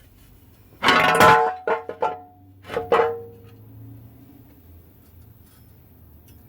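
Metal parts or tools clanking together, several sharp strikes in the first three seconds that leave a brief metallic ringing, the loudest about a second in.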